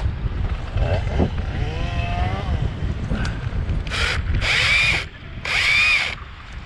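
Strong wind buffeting the microphone, a steady low rumble. Two brief, higher-pitched bursts of about a second each come a little past halfway.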